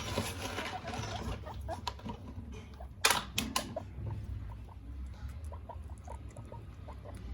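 Pet guinea pigs squeaking softly in short scattered peeps while they eat from a hand, with a few sharp loud clicks about three seconds in.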